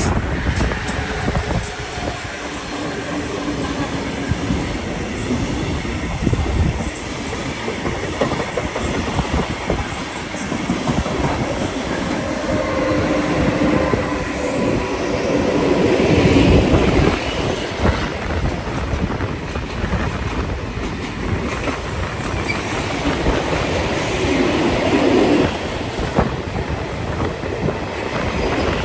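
A train passing on the track, its wheels rumbling and clattering continuously, with some high squeal from the wheels. It swells to its loudest a little past halfway.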